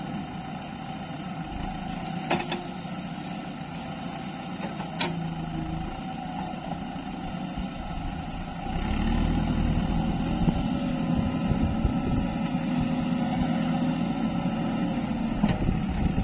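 Diesel engine of heavy earthmoving or haulage machinery running, growing louder about nine seconds in as it takes on more throttle, with a few sharp knocks.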